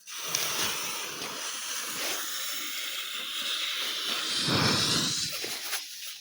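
Orange smoke fountain firework hissing steadily as it burns and pours out thick smoke, starting suddenly just as it lights. A brief low rumble swells about four and a half seconds in.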